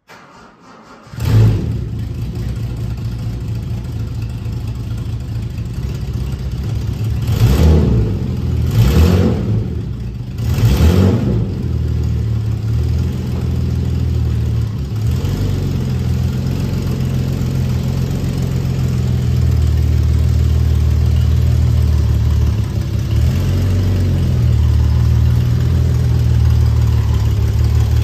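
Toyota Crown 'Kujira' engine starting about a second in and settling to idle, then three quick blips of the throttle a few seconds later, followed by a steady idle through its exhaust.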